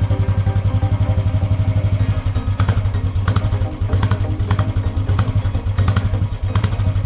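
Royal Enfield 350 single-cylinder engine idling through its stock BS6 silencer: a steady, even thumping at idle.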